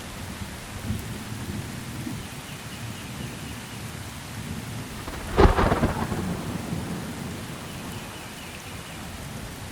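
Steady rain falling with low rumbles of thunder; about halfway through, a close thunderclap cracks sharply and rumbles away over a second or so.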